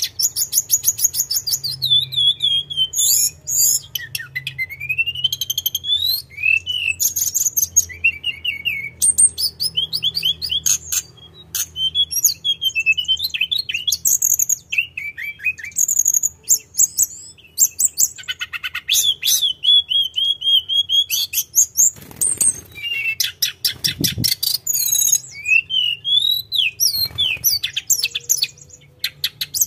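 Sunda blue robin (tledekan gunung) singing without pause: a long, varied song of fast trills, quick chip runs and rising and falling whistles.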